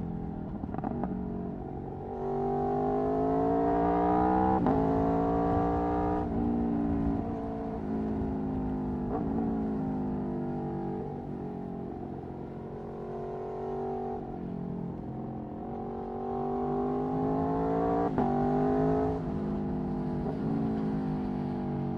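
Aprilia Tuono V4 1100's V4 engine through an Akrapovic racing exhaust, accelerating hard twice with quick upshifts, the revs dropping and climbing again at each shift, and falling away slowly off the throttle in between and near the end.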